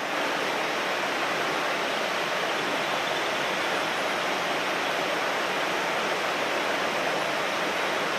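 Mountain stream rushing over rocks: a steady, even wash of water noise that does not change.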